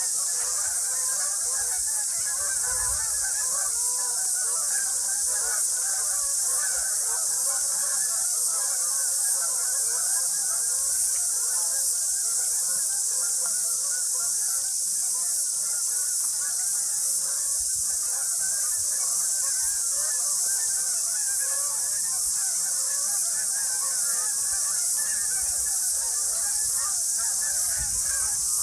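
A large flock of waterfowl calling continuously, many overlapping calls in a dense chatter, over a steady high hiss.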